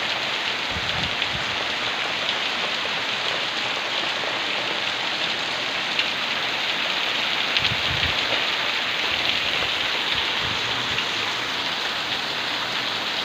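Heavy rain falling steadily in a downpour, a dense even hiss of drops, with a couple of brief low rumbles about a second in and around eight seconds in.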